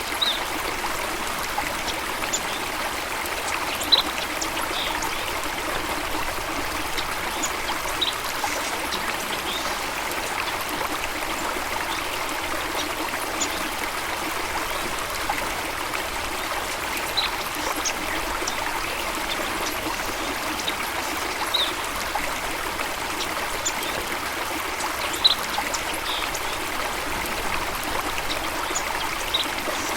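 Stream water running and trickling steadily, with brief high notes every few seconds.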